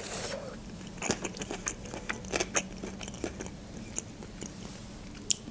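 Close-up mouth sounds of a person chewing a mouthful of Greek salad: small, irregular clicks and crunches of fresh vegetables.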